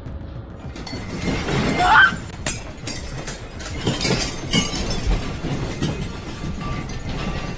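Rattling and clattering with crashes and knocks over a constant low rumble, with a brief rising squeal about two seconds in, as of a room's contents shaking and breaking.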